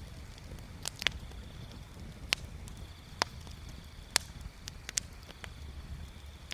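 Wood bonfire crackling: sharp, scattered pops, about six over a few seconds, over a low steady rumble.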